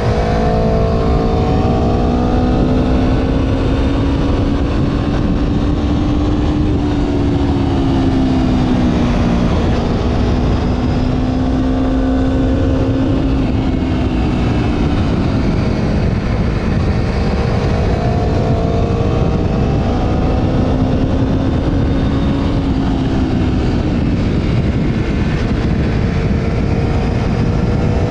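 Motorcycle engine running under way, its note rising and falling gently with small throttle changes rather than sharp revs. Heavy wind rumble on the helmet or bike-mounted camera's microphone runs underneath.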